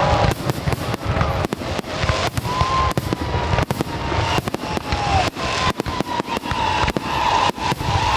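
Aerial fireworks going off in a rapid barrage, several sharp bangs and pops a second, with wavering whistles gliding over them.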